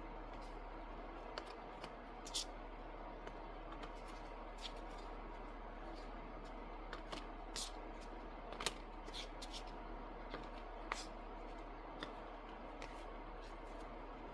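Trading cards being handled and laid out on a table: soft, scattered taps and slides of card on card and on the surface, over a faint low hum.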